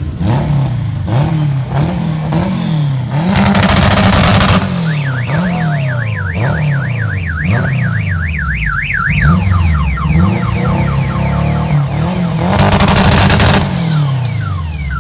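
Car engines revved over and over, their pitch rising and falling, while a car alarm siren warbles fast and then chirps in falling sweeps. Two loud bursts of noise come about three seconds in and near the end.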